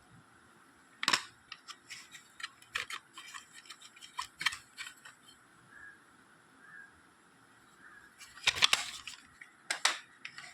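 Plastic audio cassette cases being handled, clicking and clattering against each other in a string of sharp irregular clicks, with a louder clatter about eight and a half seconds in.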